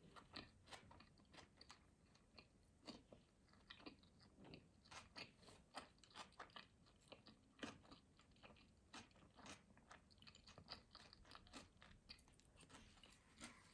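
Faint chewing of sushi rolls: a run of soft, irregular crunchy clicks, several a second. The sound is thin and low because it was recorded without the microphone.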